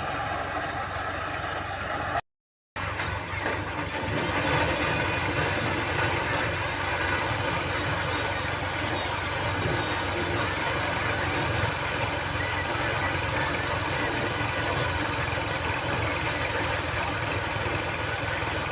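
Swaraj diesel tractor running steadily while driving a maize thresher. The sound drops out completely for about half a second a couple of seconds in, then carries on unchanged.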